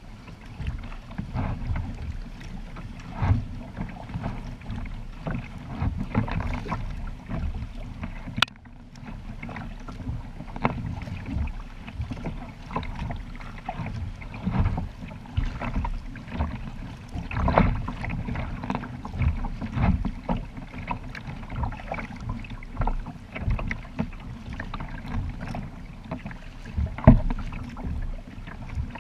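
Kayak on open water: irregular splashes and knocks of paddle and water against the hull, over a steady low rumble, with one sharp click about eight seconds in.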